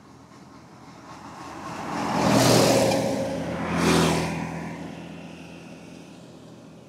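Road traffic passing close by: the noise swells to a peak about two and a half seconds in, peaks again about four seconds in, then fades away.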